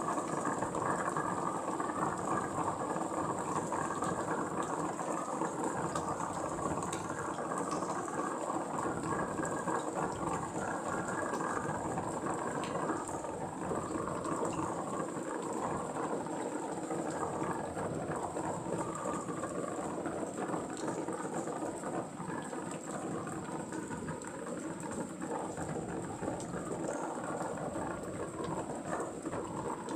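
Steady rain falling, a dense even patter of drops that grows slightly quieter in the second half.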